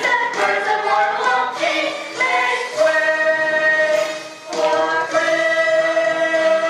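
Students singing together as a chorus with musical accompaniment, shifting through several notes, then, after a brief dip, holding one long note from about five seconds in.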